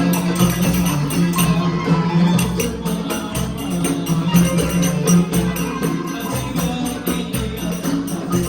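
Live band playing an instrumental passage of an Arabic song, with sustained bass notes under a busy, steady percussion beat.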